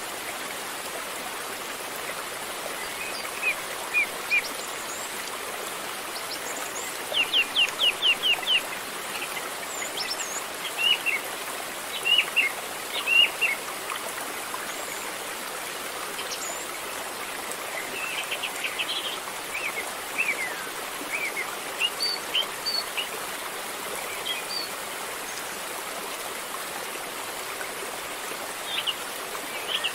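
River water flowing steadily, with small birds chirping and trilling over it in short, repeated phrases, including a rapid run of chirps about seven seconds in.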